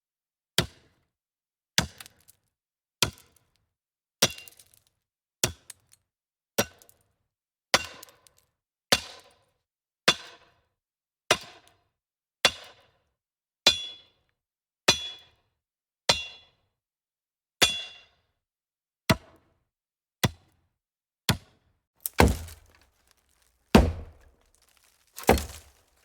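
Chopping strikes into wood, about one every 1.2 seconds, each a sharp blow with a brief high ring. Near the end come three heavier blows, a second and a half apart, with a deeper, hollow body: an axe chopping into a hollow tree.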